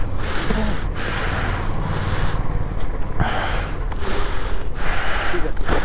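A person breathing hard close to the microphone, quick rough breaths about one a second, over a steady low rumble.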